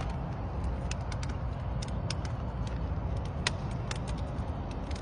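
Wood campfire crackling: irregular sharp pops and snaps, one louder pop about three and a half seconds in, over a steady low rumble.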